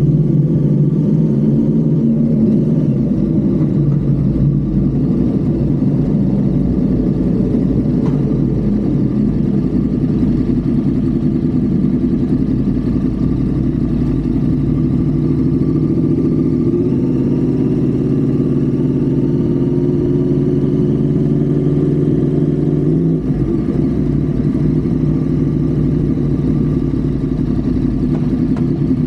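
Honda Civic FD's engine and road noise, heard on board at highway speed: a steady, loud drone that changes pitch a little as the throttle varies, with a slight drop in engine note about 23 seconds in.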